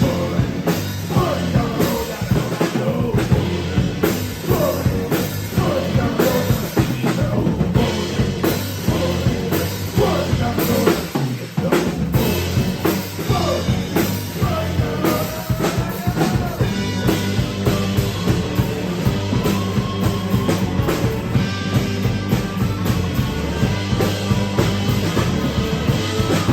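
Live rock band playing an instrumental stretch of a song, with the drum kit keeping a steady driving beat.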